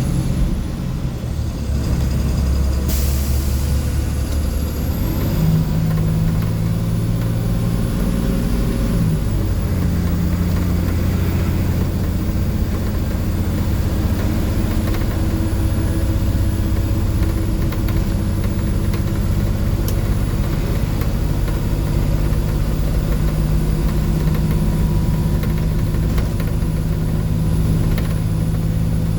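A Blue Bird school bus's International DT466E inline-six turbo diesel, heard from on board. It pulls under load: the engine note climbs, drops back with a transmission upshift about nine seconds in, then runs steadily at cruise. A short sharp sound comes about three seconds in.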